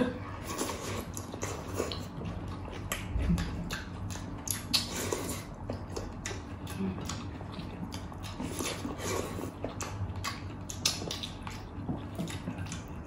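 Close-miked mukbang eating: people chewing and smacking their lips on pork hock and rice eaten by hand, a steady run of wet clicks and smacks.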